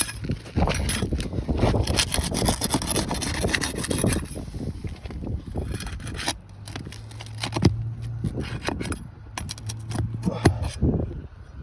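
Steel flat bar scraping and prying under asphalt roof shingles to break their seal, a dense rasping scrape for the first half. Then come quieter stretches with a few sharp knocks as the bar strikes and works around the nails.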